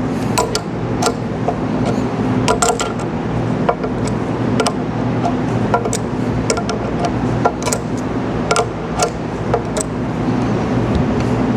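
Irregular sharp knocks and metallic clicks, about one or two a second, from tools working the pump's fittings loose, over a steady low hum.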